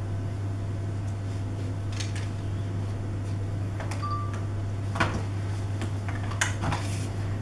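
A few short plastic clicks and knocks as vacuum cleaner attachments are handled, the sharpest about two, five and six and a half seconds in, over a steady low hum.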